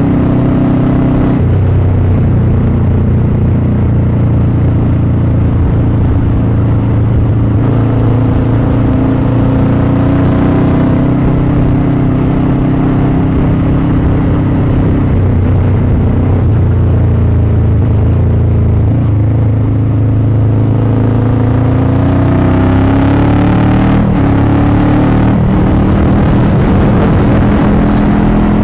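Motorcycle engine running while riding, its note rising and falling several times with the throttle, over a steady rush of noise.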